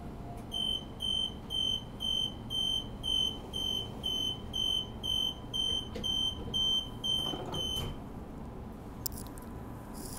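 Door-closing warning beeper of a Transperth Bombardier B-series electric train: a high, steady-pitched beep repeating about twice a second, about fifteen times, then stopping, over a low hum.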